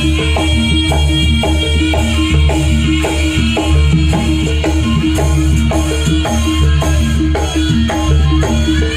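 Jaranan sentherewe music: a loud, percussion-driven East Javanese ensemble with a heavy bass beat and even drum strokes about three a second under held high tones.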